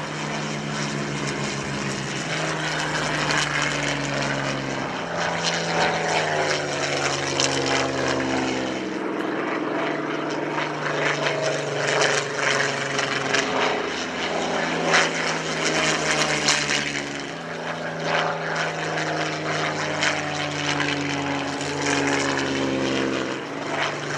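Propeller aircraft flying past with its piston engine running. The engine note shifts and slides down in pitch a few times as the aircraft passes.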